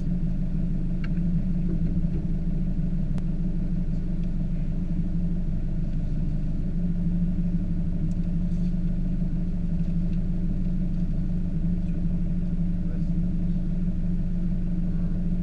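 Rally car's engine idling steadily while the car stands still, heard from inside the cabin.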